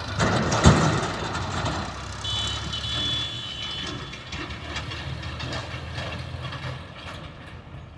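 Vehicle engine running steadily, with one loud knock a little under a second in and a high beep lasting about a second near the middle.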